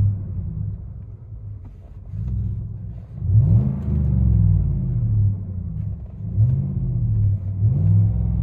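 A 2018 Chevy Silverado's 5.3L V8 exhausting through a Flowmaster 40 Series muffler with the resonator deleted, heard from inside the cabin as a deep rumble. The revs drop off early, then climb sharply three times, about three, six and a half and nearly eight seconds in.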